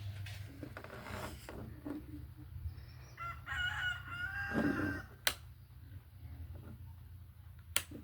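A rooster crowing once, starting about three seconds in and lasting under two seconds, over a steady low hum. Two sharp clicks follow later.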